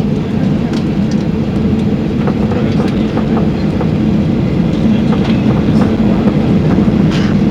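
Steady low rumble of a passenger jet's engines and wheels heard inside the cabin while the plane taxis, with scattered light clicks.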